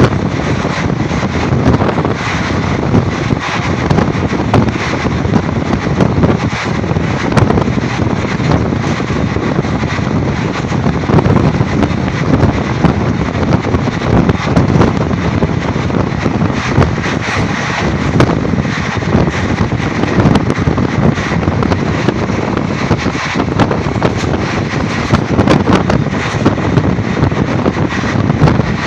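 Indian passenger train running at speed, heard from an open coach window: steady running noise of the wheels on the rails, mixed with wind rushing over the microphone.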